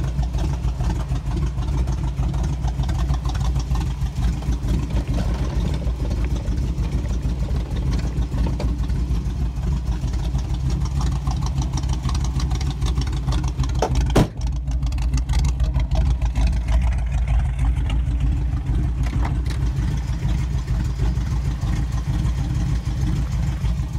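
A 1967 Chevrolet Camaro RS's engine idling steadily with a low, even rumble. A single sharp knock about fourteen seconds in.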